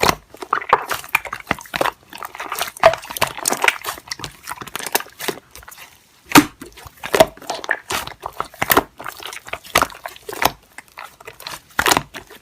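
Slime being squeezed and poked by hand: an irregular run of sticky clicks and pops.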